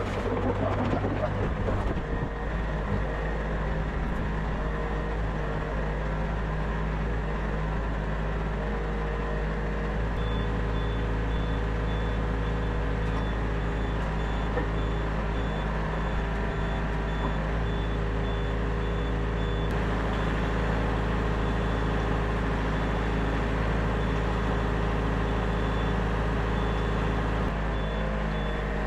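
Diesel engine of a Yanmar VIO50 mini excavator running steadily. From about a third of the way in, a high beeping alarm sounds over it at a regular pace.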